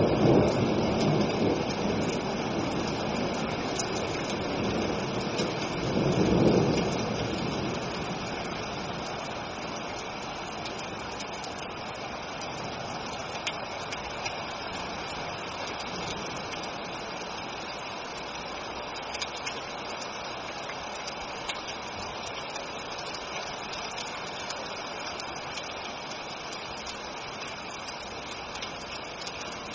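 Steady rain with rolling thunder: one rumble in the first couple of seconds and another about six seconds in, then rain alone at an even level.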